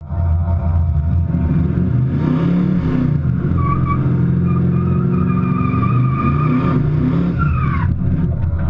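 Chevrolet Camaro V8 running loudly at a drag strip, its engine note rising and falling. From about three and a half seconds in, a high wavering squeal rides over it, then glides down in pitch and stops shortly before the end.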